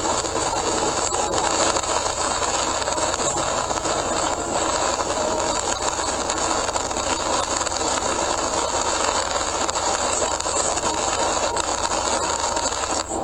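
Car driving at speed on a rain-soaked expressway, heard from inside through a dashcam: steady road rumble with the hiss of tyres on wet pavement and rain on the car.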